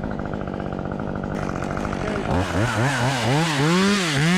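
Two-stroke chainsaw idling, then from about halfway revved up and down several times in quick rises and falls, about two a second.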